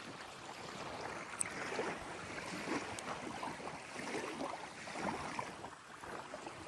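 Lake water lapping at the water's edge, a steady rushing noise with some wind.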